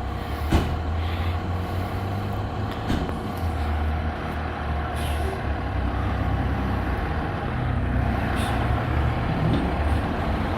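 Fire engine's diesel engine running with a steady low rumble, broken by a few brief sharp hisses or clicks, typical of air brakes.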